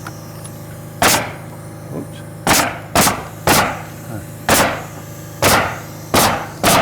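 Pneumatic nail gun driving nails into plywood sheathing: eight sharp shots, unevenly spaced about half a second to a second and a half apart.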